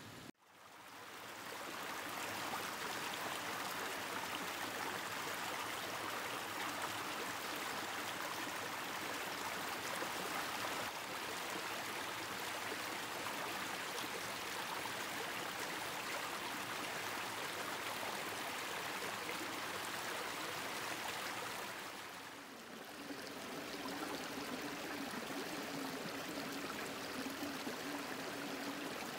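Mountain stream flowing over rocks, a steady rushing and babbling of water that fades in at the start and dips briefly about three-quarters of the way through before carrying on.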